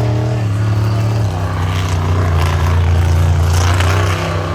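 Monster truck engine running loud at high revs, its pitch dropping a step about a second in and then holding steady.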